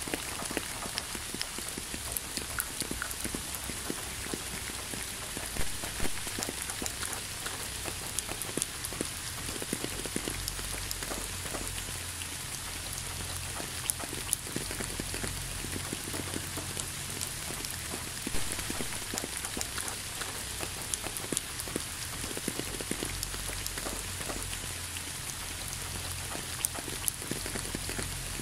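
Steady rain falling: a dense, even patter of drops, with a few louder single drips standing out now and then.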